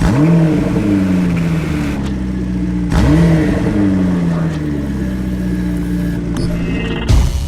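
Mercedes-AMG S 63 Coupe's twin-turbo V8 through an Akrapovic exhaust system, revved twice about three seconds apart, each time the pitch shooting up and then falling slowly back. A short loud burst comes near the end.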